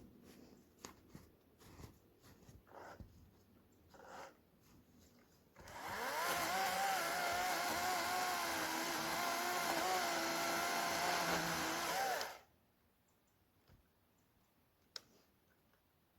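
Greenworks 40V cordless electric chainsaw running with a steady whine for about six seconds, then stopping abruptly. A few light clicks and knocks come before it starts.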